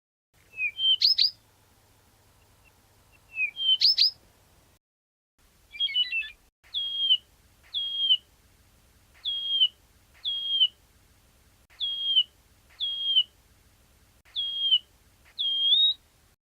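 Blyth's reed warbler song. It opens with two quick phrases of rising notes, each ending in a sharp upward sweep. Then come eight clear down-slurred whistles, repeated in pairs about a second apart.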